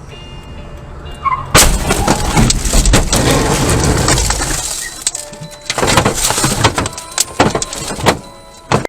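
Car crash: a vehicle running, then a sudden loud impact about a second and a half in, followed by a few seconds of crunching and scraping noise. A second stretch of clattering knocks and bangs comes after a short lull.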